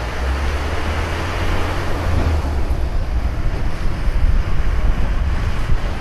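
Wind buffeting the microphone of a moving bicycle, a heavy, uneven low rumble over a steady rushing hiss.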